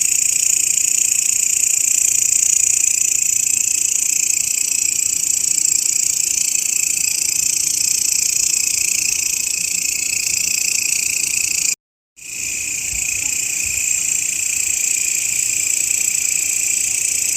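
Grasshopper stridulating in a continuous high-pitched buzz. About twelve seconds in it cuts out completely for about half a second, then comes back, rising to full strength within a second or so.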